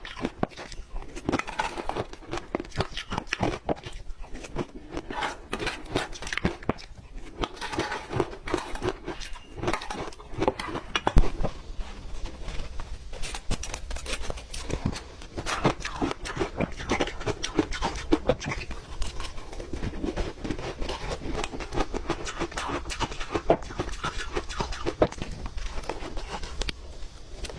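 Ice being chewed and crunched close to the microphone, a dense run of irregular crunches and cracks.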